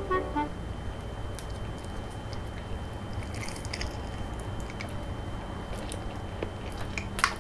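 Biting into and chewing a large salmon nigiri (raw salmon over sushi rice), picked up close to the mouth. A sharp click comes just before the end.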